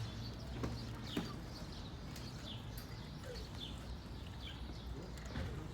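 Short bird chirps repeating in the background over a low steady hum, with two sharp clicks about a second in.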